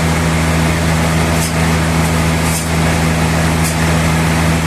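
Sawmill machinery running steadily with a constant low hum, with a short high hiss about once a second.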